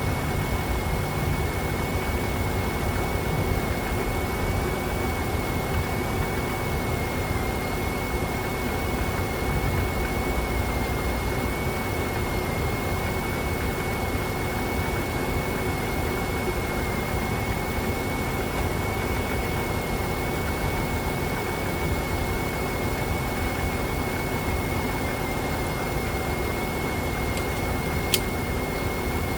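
Chrysler 3.8 L V6 minivan engine idling steadily, with a constant high-pitched whine over the running; one sharp click near the end.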